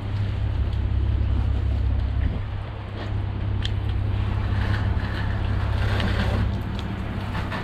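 Steady low drone of a pressure-washing rig's motor running, over the hiss of a water spray stream, with a brief dip in the drone about two seconds in. The soft-wash pump has lost pressure, so the stream is falling short of its usual reach.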